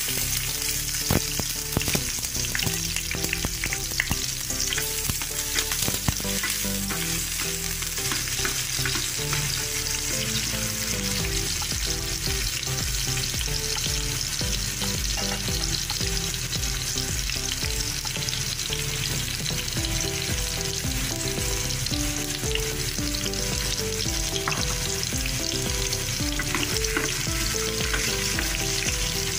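Chopped garlic and sliced red onion sizzling steadily in hot oil in a stainless steel frying pan, with a few sharp clicks in the first several seconds as the onion goes in.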